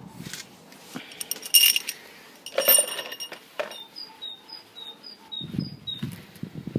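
Loose steel bolts clinking and ringing as they are handled and set down, twice in the first half. A bird chirps repeatedly in the background in the second half.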